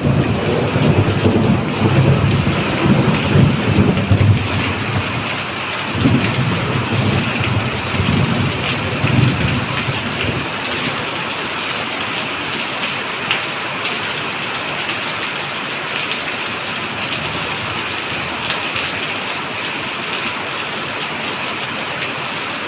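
Heavy rain falling steadily with thunder rumbling; the thunder rolls on and off for about the first ten seconds, then dies away, leaving the even hiss of the downpour.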